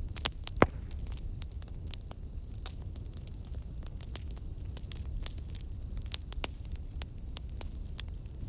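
Wood fire in a fireplace crackling, with scattered sharp pops and one loud pop about half a second in.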